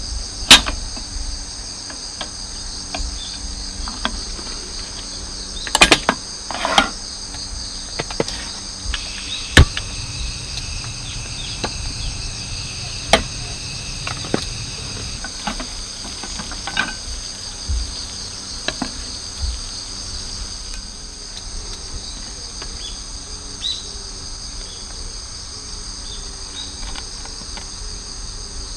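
Crickets trilling steadily, with irregular sharp pops and cracks from a crackling wood campfire.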